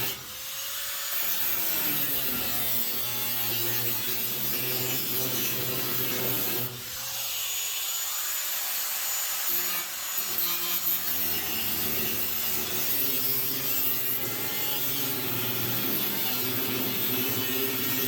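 Power saw cutting through the car body's sheet metal, running steadily under load; it briefly lets off and spins back up right at the start and again about seven seconds in.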